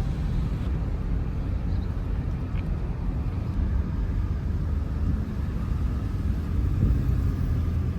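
Steady low rumble of a car on the road.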